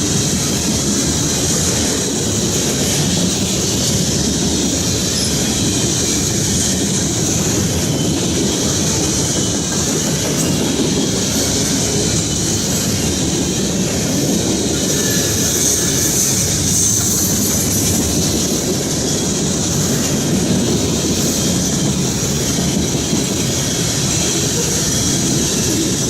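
Freight train cars rolling past, their wheels clacking over the rail joints, with a steady high-pitched hiss from the wheels on the rails.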